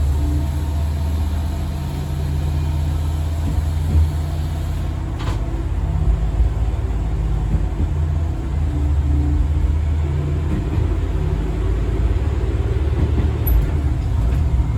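Diesel railcar running along the line, heard from inside the car: a steady low engine drone with the rumble of wheels on rail.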